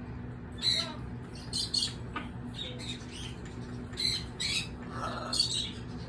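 Lory parrot chattering: a string of short, high-pitched calls coming every half second to a second, over a low steady hum.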